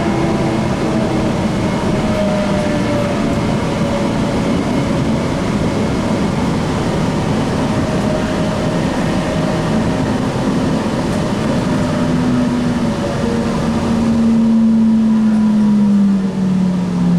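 Light rail train heard from inside the car, braking into a station: a steady rumble of wheels on rail, with the traction motors' whine falling in pitch. Near the end the whine becomes the loudest sound and slides lower as the train slows, while the hissing rush above it fades.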